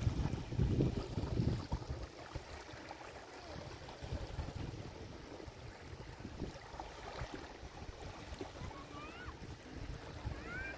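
Small waves washing onto a beach, the wash loudest in the first two seconds and then settling to a lower murmur. Faint distant voices of people playing in the water, with a couple of short rising calls near the end.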